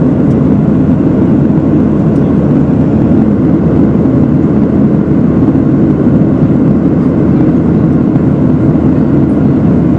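Steady, loud airliner cabin noise in flight: the even rush of engines and airflow heard from inside the passenger cabin.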